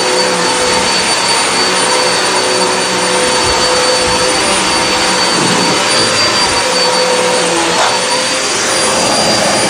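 Hoover WindTunnel High Capacity upright vacuum cleaner running on carpet: the rush of suction air under a steady motor whine, shifting slightly as it is pushed over the floor.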